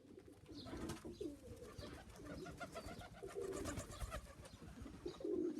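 Domestic pigeons cooing, repeated low wavering coos.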